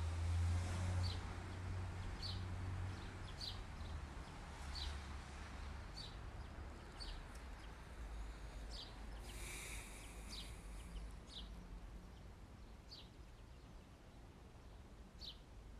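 A small bird chirping repeatedly, short high chirps at irregular intervals, over a faint low hum that fades after the first few seconds. A brief soft hiss comes a little past halfway.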